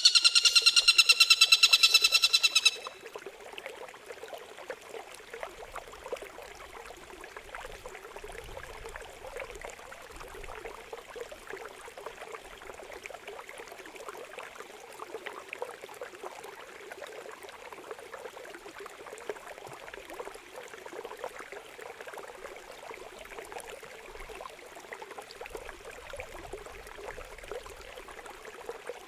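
Loud, rapidly pulsing bird song cuts off about three seconds in. Then a steady trickle and splash of running water.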